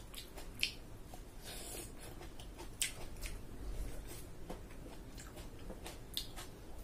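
A person chewing a mouthful of food, with soft moist mouth clicks and smacks throughout. Three sharper clicks stand out, about half a second, three seconds and six seconds in.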